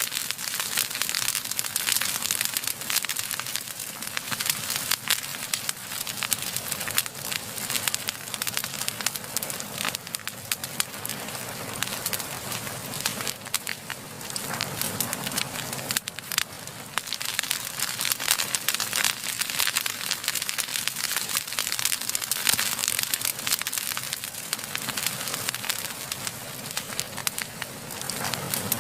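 Wood fire burning steadily: dense, rapid crackling and popping over a steady hiss of flame.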